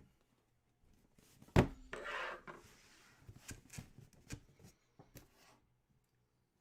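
A sharp knock on a hard surface, then a short rustle and a scatter of light taps and clicks, like objects being handled and set down on a table.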